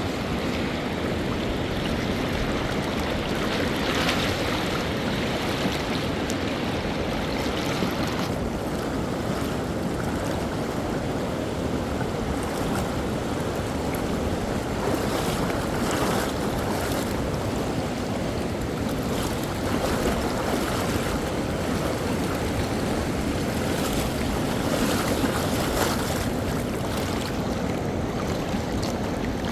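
Rushing water of a fast mountain river, a steady loud noise with a few brief splashes.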